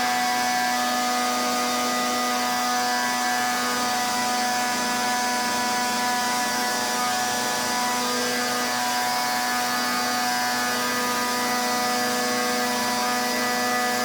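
Pressure washer running steadily: a constant machine whine with the hiss of the water spray over it.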